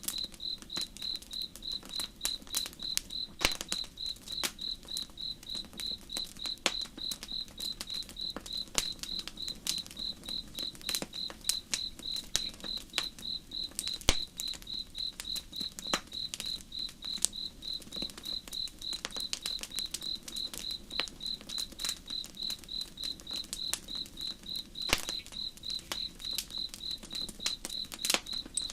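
A cricket chirping in an even, unbroken rhythm, over campfire crackling with frequent sharp pops and a low steady hiss.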